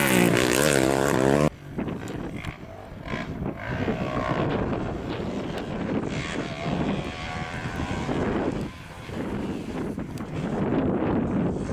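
A rally competition engine running at high revs, its pitch wavering, cuts off abruptly about a second and a half in. It is followed by quieter wind noise on the microphone with a distant engine.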